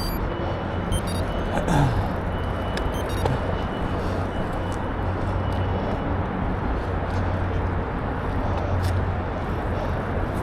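Steady wind and rolling noise from riding a bicycle, with scattered clicks and a brief falling tone about two seconds in.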